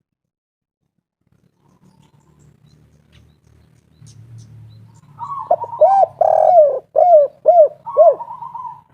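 Spotted dove cooing: about five seconds in, a rough rolling note, then a run of six short arched coos, one longer than the rest, and a final rough trill. A faint low hum lies under the quiet first part.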